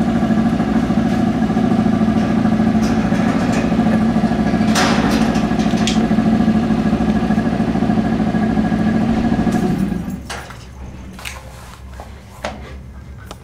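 A vehicle engine idling steadily close by, a low even hum with no change in speed, which stops abruptly about ten seconds in.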